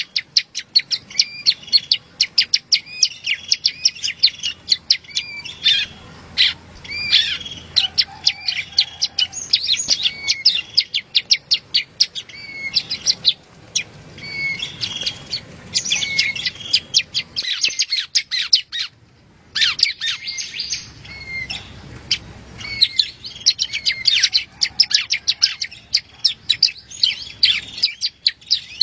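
Yellow-bellied prinia (prenjak rowo) singing: rapid, dense runs of sharp high chips and short trilled phrases, with a brief pause about two-thirds of the way through.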